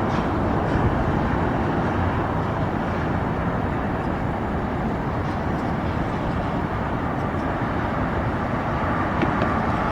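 Steady roar of airport background noise, jet engine and traffic rumble blended, with no rise or fall.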